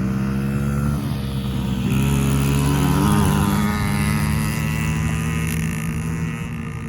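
Small kids' dirt bike engines, a Yamaha PW50 two-stroke and a Honda CRF50F four-stroke, running at low revs, their pitch stepping and wavering a few times.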